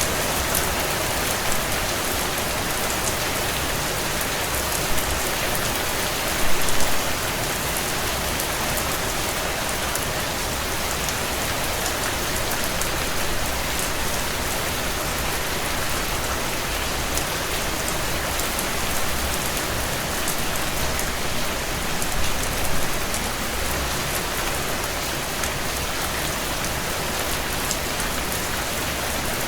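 Heavy rain drumming steadily on a tin roof, a dense patter of drops with a couple of brief louder gusts of drops, about six and a half seconds in and again near twenty-two seconds.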